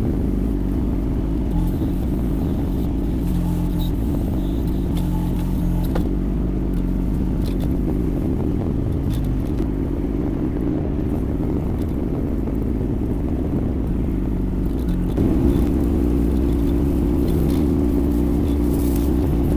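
Yanmar diesel engine of a Kymron XH20D mini excavator running steadily under work. About fifteen seconds in its note steps up and grows louder, as under heavier hydraulic load.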